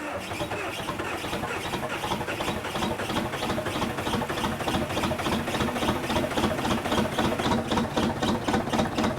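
Bulldozer engine being cranked over on its starter: a steady, evenly repeating chug that grows slightly louder toward the end as the engine is about to start.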